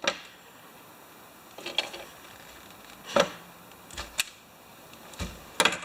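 Handling noise from a repair job: about eight scattered sharp clicks and light knocks as tools and the cord's wire ends are handled, one of them a duller thud near the end.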